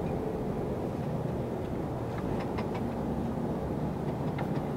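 Tractor-semitrailer's diesel engine and road noise heard from inside the cab while driving, a steady low drone with a few faint clicks.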